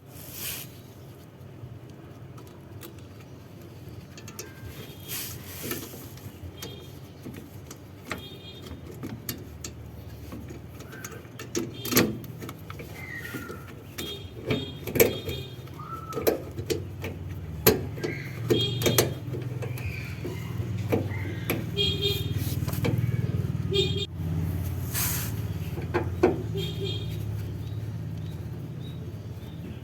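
Car engine running steadily, getting louder about halfway through, with scattered sharp clicks and knocks over it.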